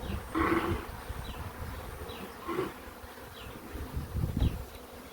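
Swarm of honeybees buzzing around an open hive, with louder swells as bees pass close, about half a second in and again near the end, over a low rumble.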